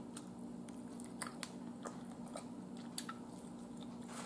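Mouth sounds of a person chewing a mouthful of barbecue rib: soft, scattered wet clicks and smacks, over a faint steady hum.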